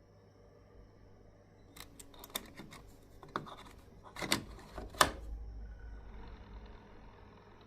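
Irregular rattling clicks from the Arctic Cooler 360, bunched in the middle, with the sharpest knock about five seconds in, over a low rumble.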